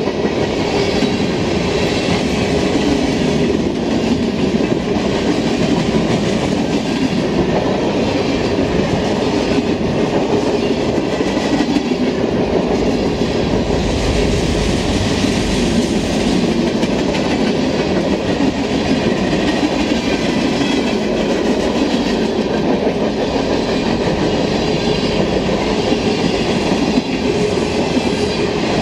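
Freight train's cars (flatcars, boxcars and tank cars) rolling past at close range: a steady, loud rumble and clatter of steel wheels on the rails, without letup.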